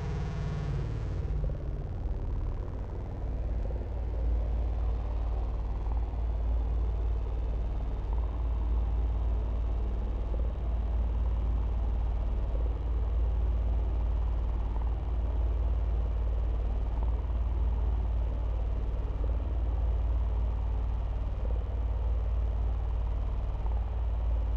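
A steady deep rumble with a fainter hiss above it, with no rhythm or distinct events.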